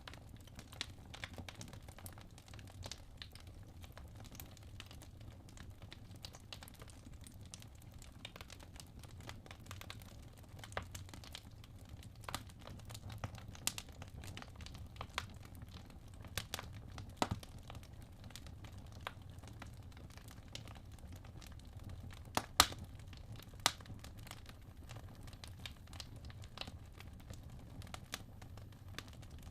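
Wood fire in a fireplace crackling, with irregular sharp pops over a steady low rumble of the burning logs, and two louder pops a little over two-thirds of the way through.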